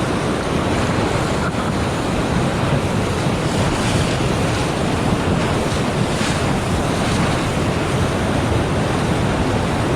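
Steady, loud rush of whitewater on the Middle Ocoee River, with wind noise on the microphone.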